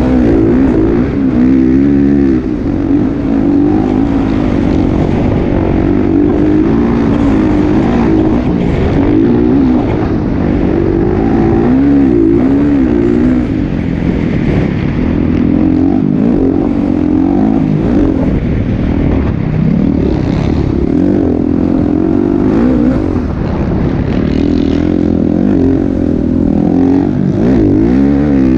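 Motocross dirt bike engines running hard, their pitch rising and falling again and again as the throttle opens and closes.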